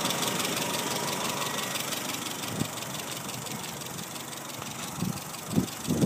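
Truck engine idling steadily, with a few short knocks in the second half.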